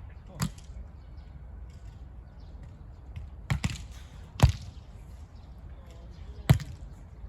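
A volleyball being struck by hands and forearms during a rally: about five sharp slaps, a close pair near the middle and the loudest two about four and a half and six and a half seconds in.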